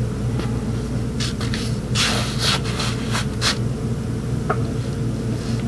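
Short scrapes and knocks of hands handling a cart and its backing panel, clustered between about one and three and a half seconds in, over a steady low hum.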